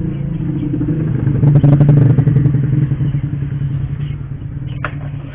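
A motorcycle engine running, swelling to its loudest about two seconds in and then fading. A single sharp knock near the end.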